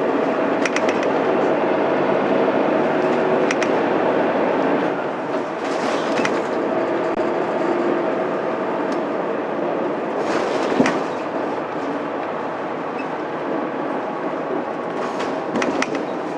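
Interior running sound of a Mitsubishi Fuso Aerostar city bus with its 6M70 12.9-litre six-cylinder diesel engine and five-speed manual gearbox: steady engine and road noise under way, with sharp rattles and clicks from the body. The noise eases slightly about five seconds in.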